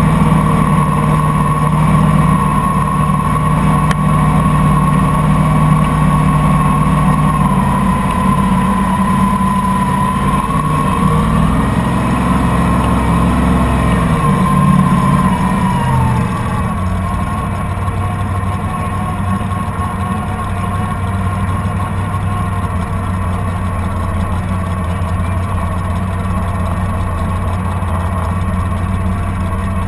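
Motorboat engine running under way. About halfway through, its pitch wavers and then drops as it is throttled back to a lower, steady speed.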